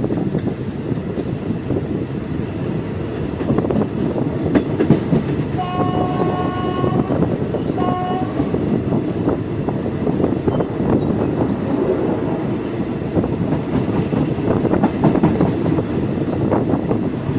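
Passenger train running, heard from on board as a steady rumble and clatter of wheels on rail. About six seconds in, the train horn sounds one long blast followed by a short one.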